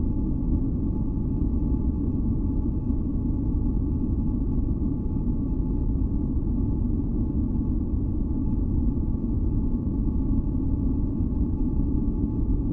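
Steady, deep masking noise with most of its weight in the low range, like brown noise, and a few faint held tones above it.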